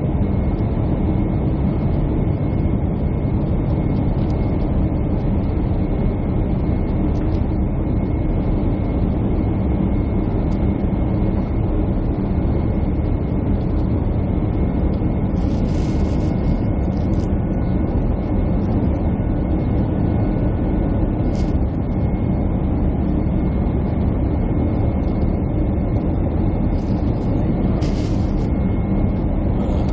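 Jet airliner cabin noise heard from a window seat: a steady rumble of engines and airflow with a faint steady whine. There are a few brief clicks or rustles about halfway through and again near the end.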